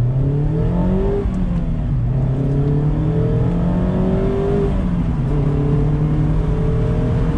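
Mazda MX-5 Miata's 2.0-litre inline-four pulling under acceleration. Its pitch rises, falls back about a second in, climbs again, drops once more near the middle, then rises slowly. Steady wind and road noise of the open-top car run underneath.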